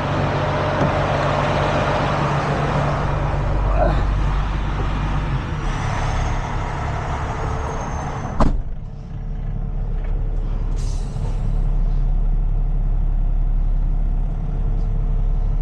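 Heavy tow truck's engine running steadily, with a hiss of air that cuts off in a sharp knock about eight seconds in, then a short burst of air hiss a couple of seconds later, typical of a truck's air brakes.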